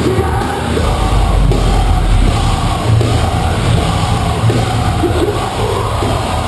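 Metalcore band playing live, with loud heavy guitars, bass and drums and yelled vocals; the deep bass comes in just under a second in.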